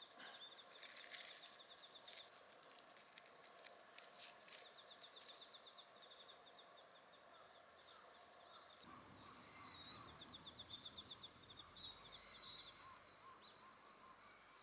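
Faint outdoor ambience: a quiet, rapid high trill repeats through much of it, with short high bird-like chirps in the second half.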